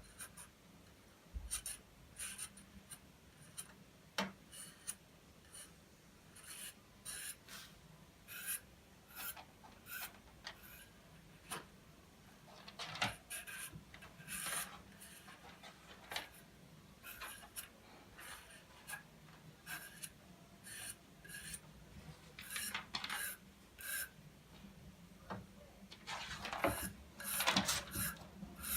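Utility knife blade scraping over a part of an opened iPhone 6 in many short, uneven strokes. It is light shaving to stop the phone's corners from creaking when pressed.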